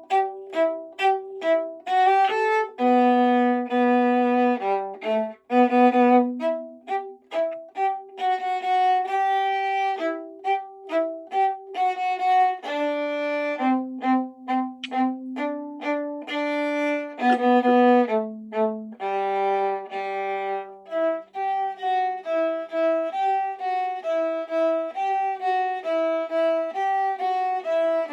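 Violin playing a melody of short notes mixed with longer held ones, one note at a time.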